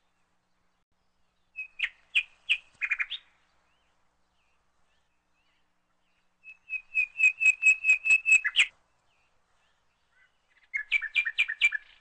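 A small bird chirping in three quick runs of sharp, high repeated notes, the middle run the longest, with silence between them.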